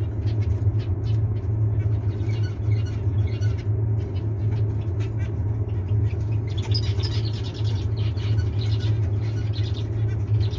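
Small cage birds chirping, the chirps busier in the second half, over a steady low rumble.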